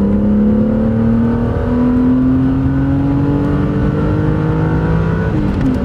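BMW E36 M3's straight-six engine pulling steadily, its pitch rising slowly as the car gathers speed, with a brief dip near the end.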